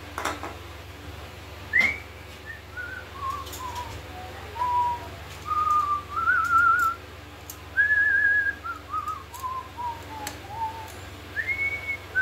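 A man whistling a tune: a string of single notes that starts high, steps down, climbs again with a warbling passage in the middle, then falls away. A few light clicks sound here and there.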